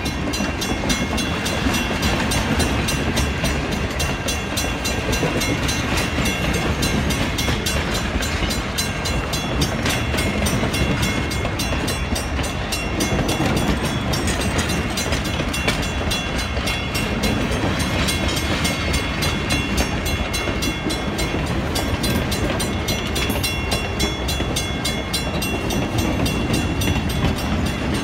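Passenger train coaches rolling past at close range: a steady run of steel wheels on the rails.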